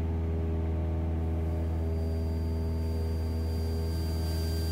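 Cessna 172SP's four-cylinder Lycoming engine and propeller droning steadily in flight, with a faint high whine that comes in about halfway through.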